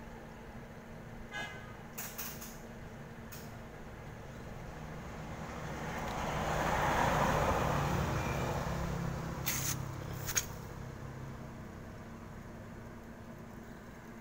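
A road vehicle passing by, its noise swelling to a peak in the middle and fading away again, over a steady low hum. A few short sharp clicks sound early on and again near the peak.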